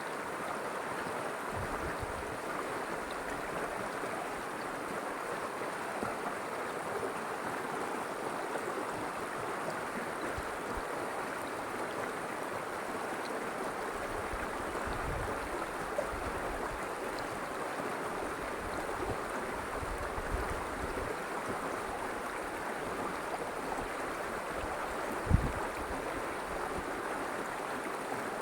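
River water flowing in a steady, even rush. A few short, dull low thumps break through, the loudest about 25 seconds in.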